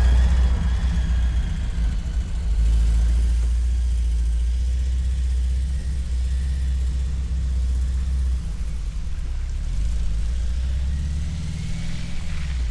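Volkswagen Vanagon camper van driving on the road: a steady low engine and road rumble, with a faint high whine that fades out in the first two seconds.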